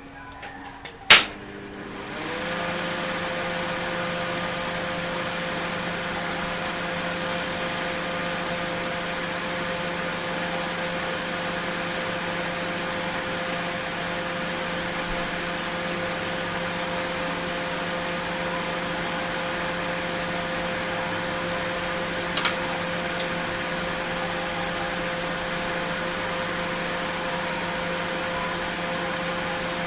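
A hot-wired microwave oven's door shuts with a sharp clack, and about a second later the oven starts up and runs with a steady hum of magnetron, fan and turntable motor. A single sharp snap cuts through the hum about 22 seconds in.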